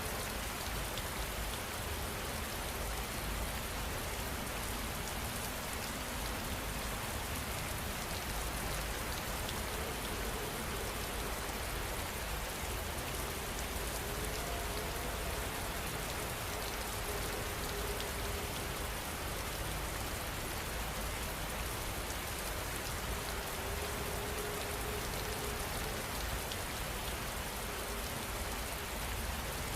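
Steady rain falling and pattering on surfaces, an even, unchanging hiss with no thunder.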